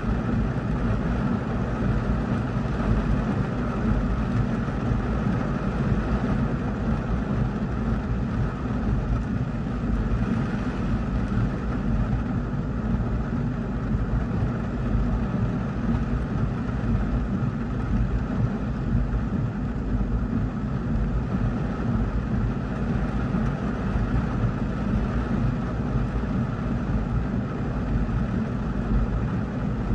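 Heavy rain falling on a car's roof and windshield, heard from inside the cabin as a steady, dense hiss over a heavy low rumble.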